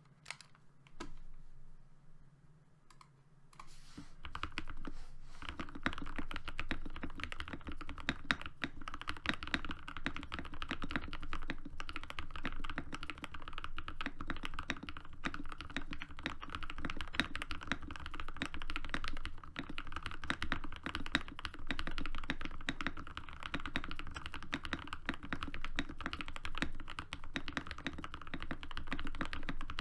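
Fast, continuous typing on a Dukharo VN66 mechanical keyboard fitted with hand-lubed, filmed SP-Star Meteor switches and PBT keycaps, a dense run of keystrokes. There are only a few scattered presses at first, and the steady fast typing starts about four seconds in.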